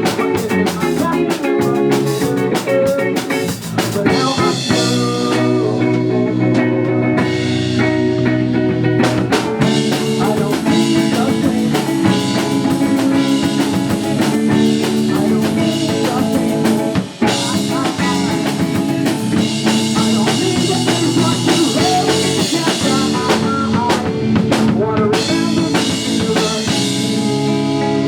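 Live rock band playing an instrumental passage, with drum kit and electric guitar, loud and continuous, with a brief drop-out about seventeen seconds in.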